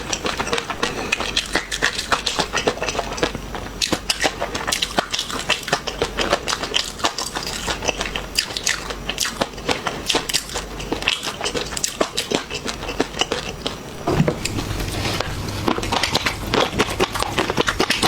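Close-up eating sounds: crunchy food being bitten and chewed, a dense run of irregular crackles and clicks. A low hum joins about 14 seconds in.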